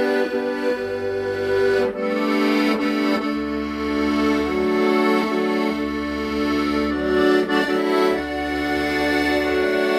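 Accordion playing a slow, sustained melody over held chords, with the left-hand bass notes changing every second or two.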